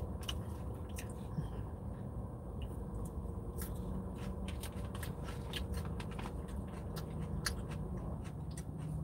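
A person chewing a mouthful of salad: wet, crunchy mouth noises with many small clicks, over a low steady hum.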